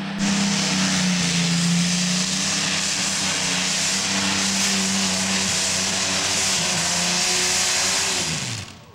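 Modified pulling tractor's engines running at full power on a pull, a loud, steady drone. Near the end the pitch falls away as the engines wind down and the sound drops off.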